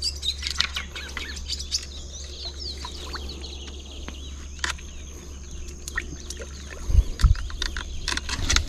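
Birds chirping, with quick repeated chirps busiest in the first three seconds. Scattered sharp clicks, and two low thumps about seven seconds in.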